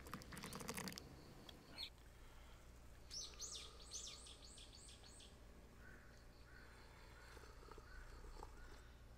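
Quiet background with a bird calling: a quick run of about six falling high chirps about three seconds in. A short scratchy rustle comes in the first second.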